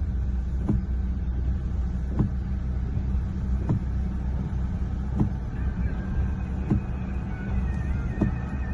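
An engine running steadily with a low rumble. A short click repeats at an even pace about every second and a half.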